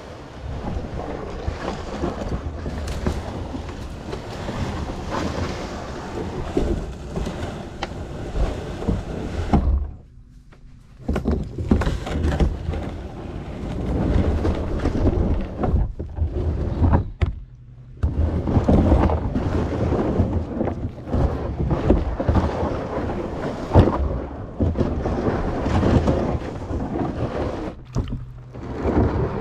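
Kayak paddling: water splashing and swishing from the paddle strokes, with occasional thunks, over a low rumble of wind on the microphone. The sound drops away briefly a few times.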